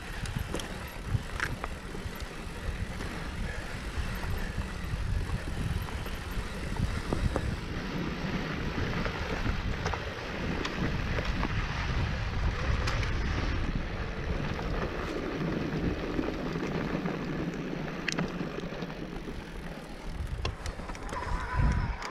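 Mountain bike riding over a rough dirt trail: tyre rolling noise with scattered sharp knocks and rattles from the bike, and wind buffeting the microphone.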